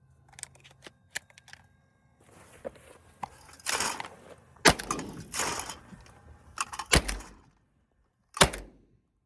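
Benelli M2 20-gauge semi-automatic shotgun firing three shots at clay targets, about 4.5, 7 and 8.5 seconds in, with lighter clicks and clatter before the first shot.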